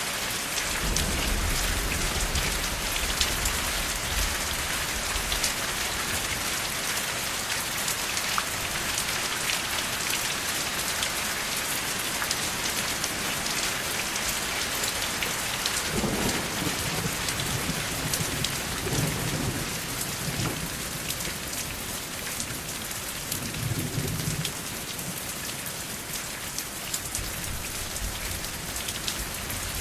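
Steady rain falling, a dense hiss of drops. Low rumbles of thunder come about a second in, again past the middle, and once more a few seconds later.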